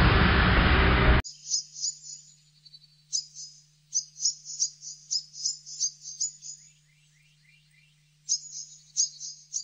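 Dramatic background music that cuts off about a second in, followed by small birds chirping in quick runs of short high notes with pauses between, over a faint steady low hum.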